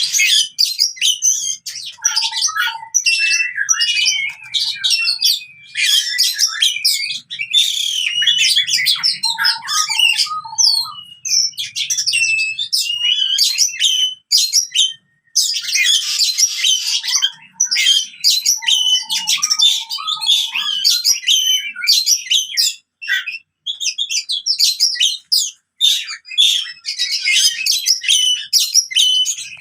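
Oriental magpie-robin (kacer) singing a fast, varied stream of chirps, whistles and harsh notes in excited fighting-mode song, with a brief pause about halfway through.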